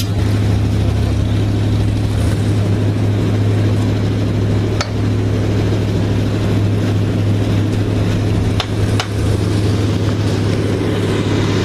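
Old dump truck's engine running steadily with a deep hum, with a few sharp knocks about five and nine seconds in.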